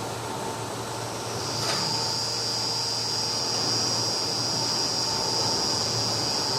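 Komman Monster XL-4200 automatic carpet washing machine running: a steady mechanical hum, joined about a second and a half in by a high, steady whine.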